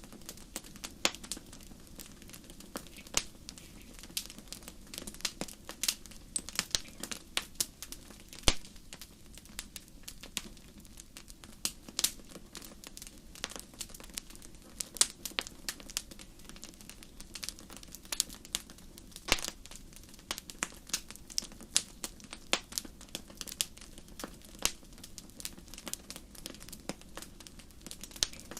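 Wood fire in a fireplace crackling: dense, irregular snaps and pops over a low steady rush of burning, with a couple of louder pops about eight seconds in and again near twenty seconds.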